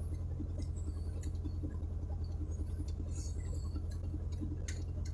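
Steady low hum of a vehicle running, with a few faint clicks.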